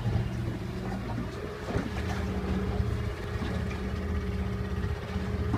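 Glass-bottom boat's engine running steadily, a continuous low drone.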